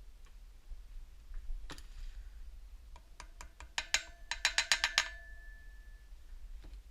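Metal struck with a hammer: one knock, then a quickening run of about a dozen sharp taps, each leaving a short metallic ring, typical of tapping a wheel bearing or seal into a motorcycle wheel hub.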